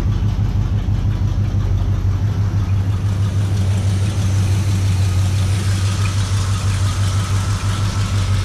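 1972 Chevy C20's V8 engine idling steadily right after a cold start, being let warm up.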